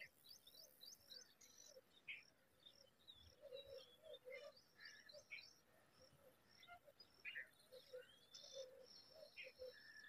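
Faint, irregular chirps and short calls of several wild birds, with many quick high notes, some sliding, and a few lower notes among them.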